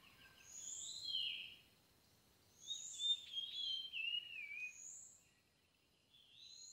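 Songbird singing: bursts of high chirping phrases, with a longer warbling run that wavers downward about three to four seconds in, over a faint steady high tone. The sound cuts off abruptly at the end.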